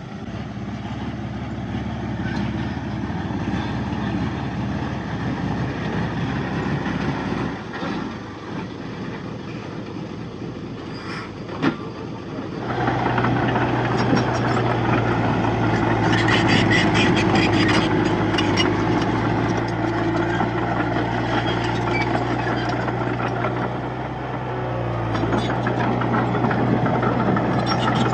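Diesel engine of a D31-P crawler bulldozer running steadily. A little before halfway there is a sharp knock, then the engine steps up louder under load, with rattling as the machine works.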